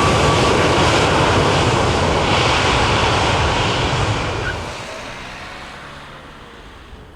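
Airliner passing close by, its engine noise loud for about four and a half seconds, then fading steadily away.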